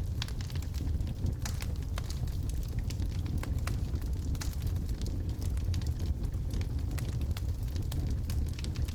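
Wood logs burning in a fireplace: a steady low rumble of the flames with frequent irregular sharp crackles and pops, several a second.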